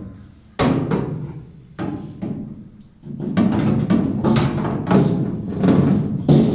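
Welded 60-litre metal fuel tank being handled and set into a boat's bow, knocking against the boat with hollow, ringing thuds. A few separate knocks at first, then a denser run of bumps in the second half.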